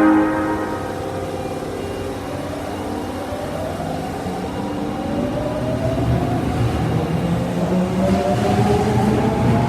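Osaka Metro Tanimachi Line subway train, car 22662, pulling away. Its odd-sounding horn cuts off within the first second. Then the traction motors' whine rises steadily in pitch as the train accelerates, over a growing rumble of the wheels.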